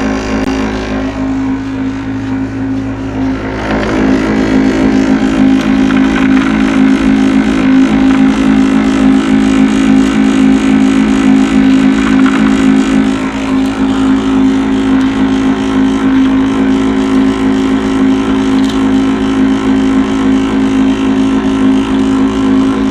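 Taylor electric pea sheller running with a steady motor hum. It gets louder about four seconds in and holds there.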